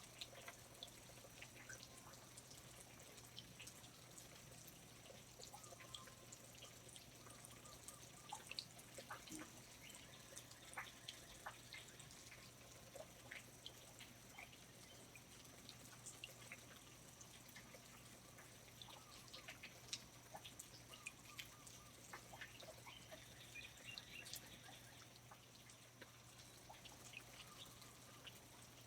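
Faint rainforest ambience: water dripping in irregular, scattered drops over a steady soft high hiss.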